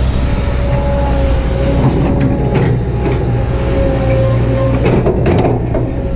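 Kobelco SK200-8 excavator's diesel engine running under load, with a steady whine from the hydraulics over the low engine hum. Short clanks and scrapes come in bursts about two seconds in and again near the five-second mark.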